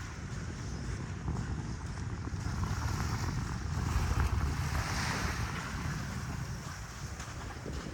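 Wind buffeting the microphone over surf washing onto the beach, with a wash that swells and fades about halfway through.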